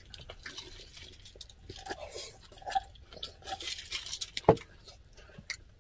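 Close-miked chewing and mouth sounds of people eating fried rice, with light clicks of spoons and chopsticks on bowls. One sharper click comes about four and a half seconds in.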